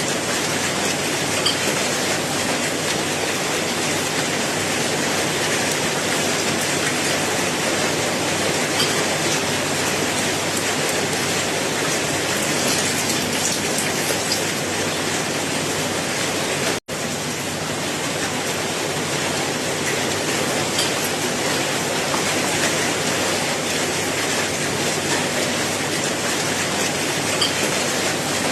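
Steady rain falling, an even hiss with a few faint drop ticks. It cuts out for an instant about 17 seconds in.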